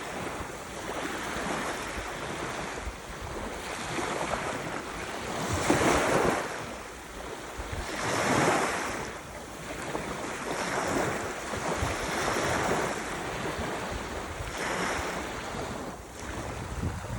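Ocean surf: waves breaking and washing in one after another, the noise swelling and falling back every two to three seconds.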